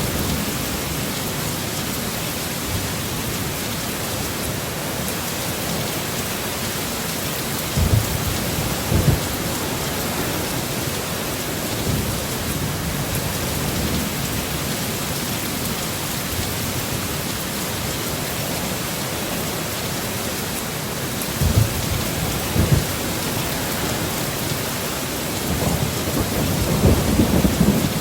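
Heavy rain falling steadily. Short low thumps come twice about eight seconds in and twice again past twenty seconds, and a low rumble of thunder builds near the end.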